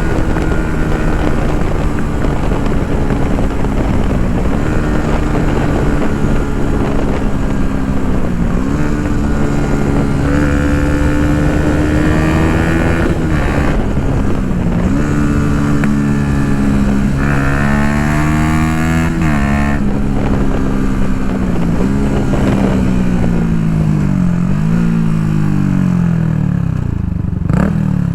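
Yamaha MT-125's single-cylinder four-stroke engine through an Akrapovic full exhaust, ridden under way. The engine pitch climbs and drops sharply at several gear changes, then falls in steps near the end with brief blips as the bike slows and changes down.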